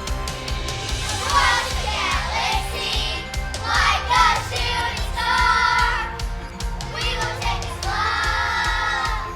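A group of children singing together over instrumental music, the singing coming in about a second in.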